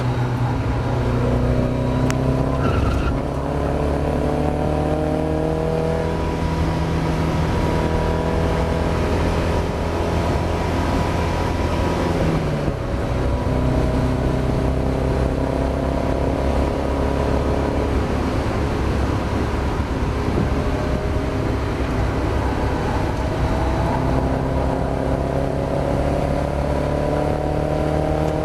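Mazda MX-5 race car's four-cylinder engine under racing load: the revs climb slowly through long pulls, drop sharply about twelve seconds in, then build again over a constant rush of road and wind noise.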